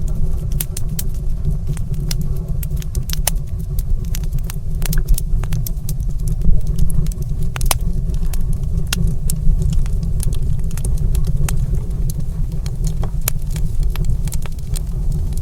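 Fire crackling in a stone fireplace: many irregular sharp pops and snaps over a steady low roar.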